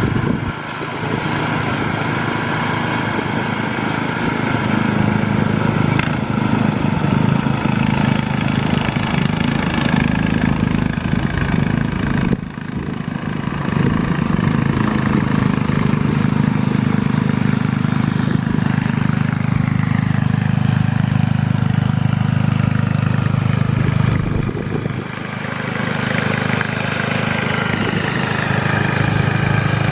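Snowblower engine running steadily, easing off briefly about twelve seconds in and again near twenty-five seconds.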